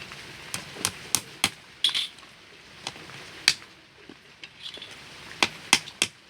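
Light hammer taps on the wooden frame of a bird cage under construction: about ten sharp knocks at irregular spacing, some in quick runs of two or three.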